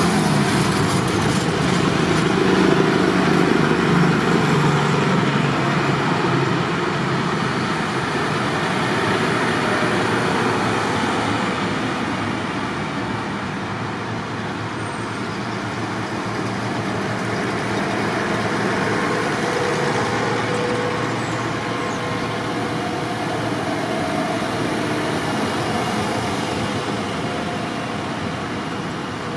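Tractor engines running as tractors drive past, loudest in the first several seconds and then a little quieter.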